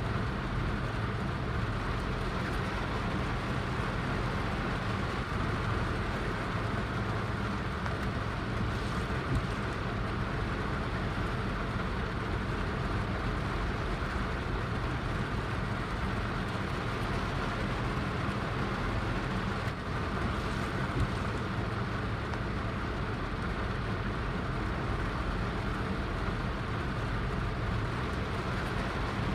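Heavy rain falling steadily: an even, dense hiss with a low rumble beneath it and no breaks.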